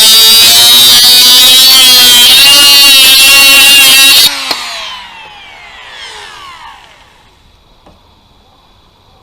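Parkside 12 V cordless 76 mm angle grinder running at full speed with a loud whine that wavers in pitch. It is switched off about four seconds in and spins down, its whine falling away over the next two to three seconds.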